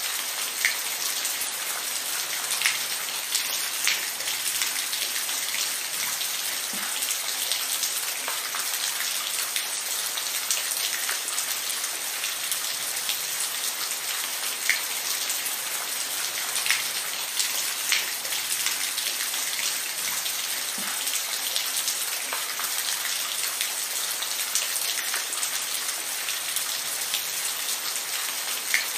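Steady rain falling, an even hiss with the sharp taps of single drops landing close by, a few of them louder than the rest.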